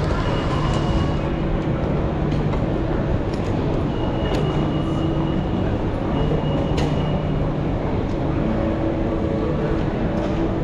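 Line P commuter train running on the track: a steady rumble with a low hum, a few brief high-pitched tones and scattered faint clicks.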